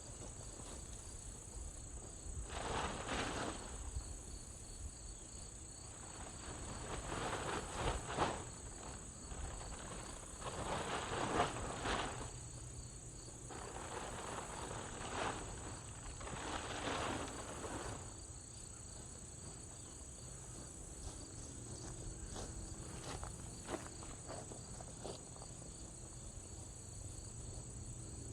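Insects shrilling steadily in a continuous high-pitched drone, with several bouts of rustling and tearing as a dry-rotted tarp is pulled off a tractor.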